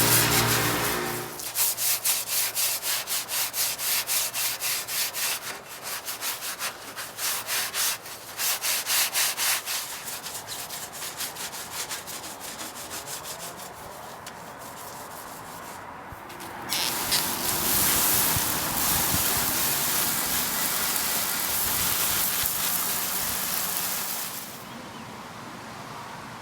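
Sandpaper rubbing back and forth on the truck bumper in quick, even strokes, about four a second, fading off in the middle. About seventeen seconds in it changes to a steadier, continuous scratchy hiss that stops near the end.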